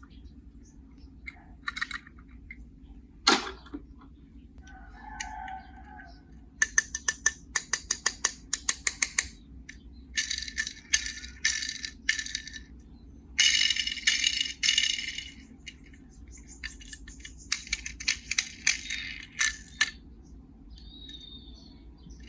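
Small die-cast Tomica toy cars clicking and rattling against each other and a plastic carry case as they are handled, in clusters of quick metallic clicks and rattles.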